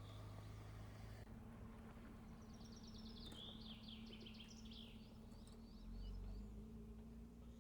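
A small songbird singing: a quick run of high notes that slides down in pitch, followed by short repeated chirps, over a faint steady low hum.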